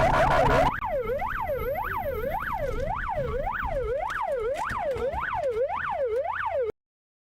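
Emergency vehicle siren in a fast up-and-down yelp, about two sweeps a second. At first it sounds over engine and road noise, which cut out abruptly a little under a second in; the siren then goes on alone and stops suddenly near the end.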